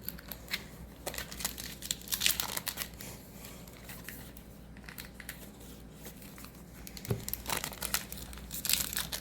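Crinkling of a foil Magic: The Gathering booster pack wrapper being handled and torn open, in clusters of crackles near the start and again near the end with a quieter stretch between.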